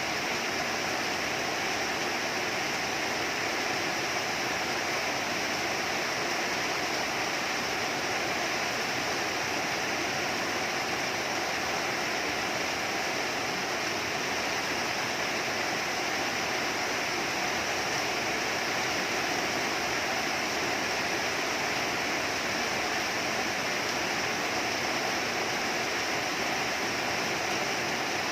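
Rain falling in a steady, unbroken rush.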